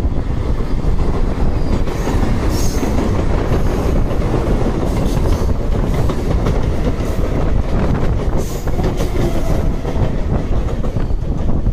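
Train running at speed on the rails, heard from aboard: a steady low rumble and clatter of wheels on track, with a few brief high-pitched hissing streaks over it.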